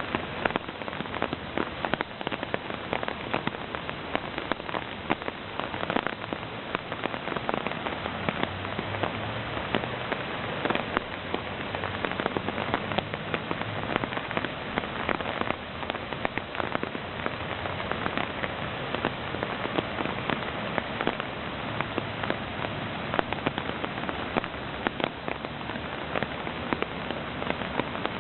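Floodwater of a rain-swollen creek rushing and splashing steadily, a dense hiss full of small crackles that never lets up.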